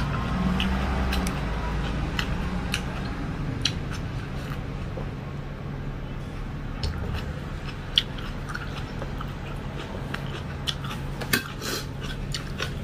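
Close-up eating sounds: a person chewing rice and egg curry, with repeated wet mouth clicks and smacks, over a steady low background hum.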